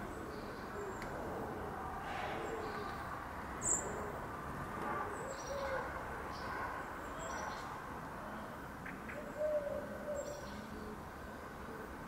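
Garden ambience: a steady low hum of distant traffic, with a few soft, low calls from a distant bird and brief high chirps, the sharpest about four seconds in.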